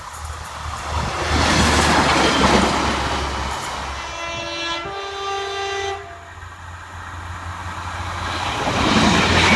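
Diesel multiple unit train running past with its wheels on the rails, sounding its two-tone horn for about two seconds, one note then the other, before the horn cuts off. The rail noise dips, then builds again near the end.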